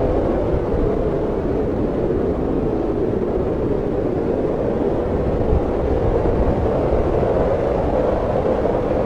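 Snowstorm wind blowing steadily, a constant rushing noise with a low rumble beneath.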